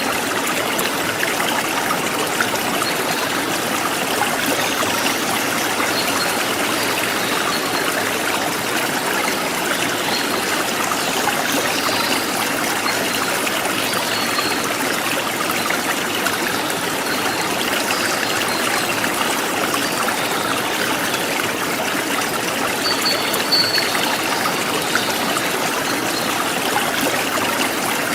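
A forest stream flowing steadily, a constant rushing and trickling of water. Faint short high bird chirps come now and then over it, the clearest a little before the end.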